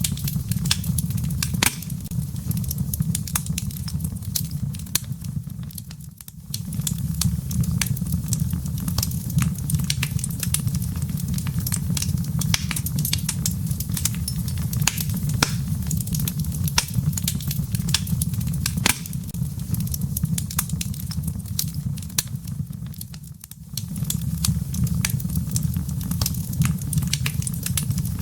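Wood fire burning in a fireplace: steady crackling with many sharp pops over a low, even rumble of the flames. The rumble briefly drops away twice.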